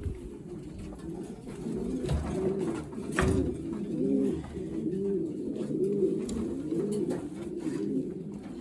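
Racing pigeons cooing in the loft: a run of low, repeated coos, with a single knock about three seconds in.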